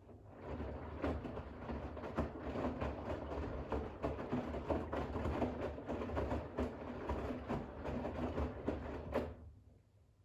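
Bosch WAX32GH1 front-loading washing machine's drum turning a load of towels in rinse water, sloshing and tumbling for about nine seconds before the drum stops.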